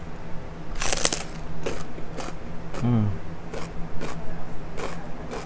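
Close-miked eating sounds: crunchy chewing of raw purple cabbage, with one loud crunch about a second in, then softer crunching chews about every half second, and a short hummed "mm" with falling pitch near the middle.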